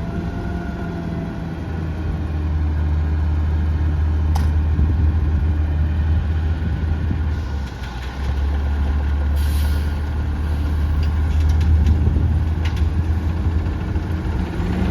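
Diesel engine of a Peterbilt 320 front-loader garbage truck running with a steady low rumble, with a single sharp click about four seconds in.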